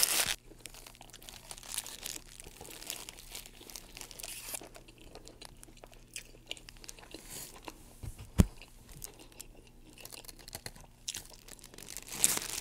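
Close-miked chewing and mouth sounds of someone eating a chicken burrito with its tortilla, with small crackles throughout and one sharp knock about eight seconds in.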